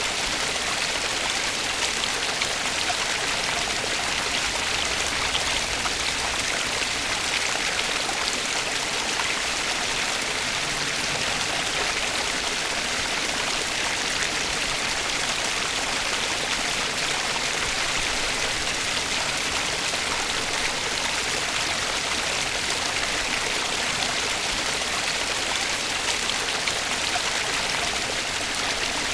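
Flowing stream water: a steady, even rush of running water with no change in level.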